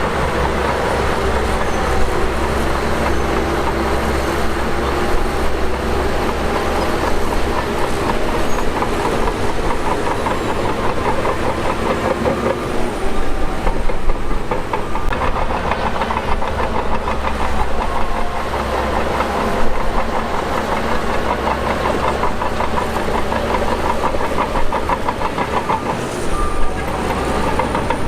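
Shantui DH17 crawler bulldozer at work: its diesel engine runs steadily while the steel tracks clank and rattle.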